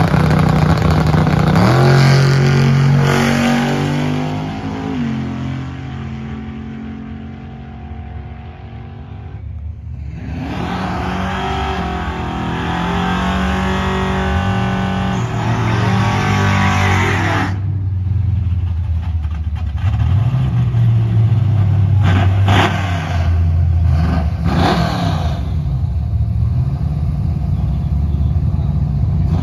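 Drag cars' engines at full throttle. A car pulls hard off the line and fades away down the strip over the first several seconds, and a second engine runs hard with rising pitch for several seconds in the middle. Near the end, cars sit at the starting line idling, with a few sharp throttle blips.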